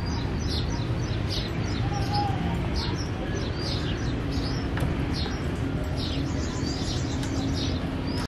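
Small birds chirping: many short, quick chirps, several a second, over a low steady rumble.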